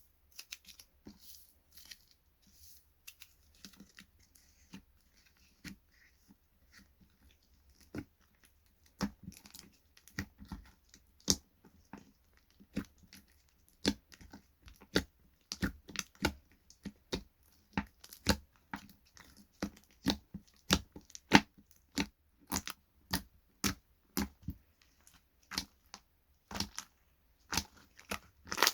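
Slime being squeezed and worked by hand, making sharp clicks and pops. They are sparse and faint at first, then come faster and louder from about nine seconds in.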